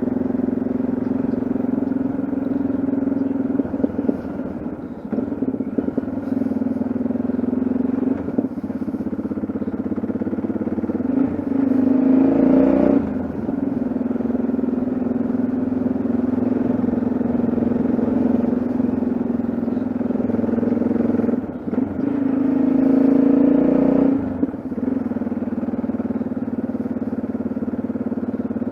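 Yamaha XT660Z Ténéré's single-cylinder engine running steadily on the road. It rises in pitch and gets louder twice under acceleration, about halfway through and again near the end, each time dropping off suddenly as the throttle is closed or a gear is changed.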